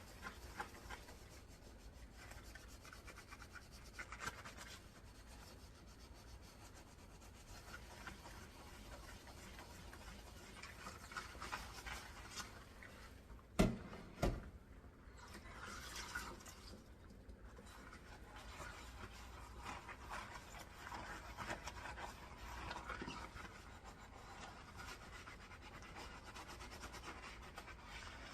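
Dishes being washed by hand: a steady scrubbing and rubbing of a sponge on dishware, with two sharp knocks of dishes against each other close together about halfway through.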